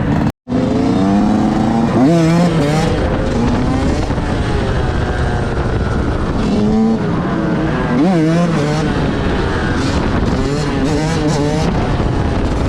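Motorcycle engines running loud and revving, the pitch climbing and wavering about two seconds in and again around eight seconds. The sound cuts out for a moment just after the start.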